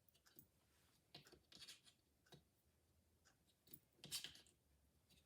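Faint, scattered clicks and scrapes of plastic glider-twist stops being slid along a drapery rod track, the loudest a few seconds in.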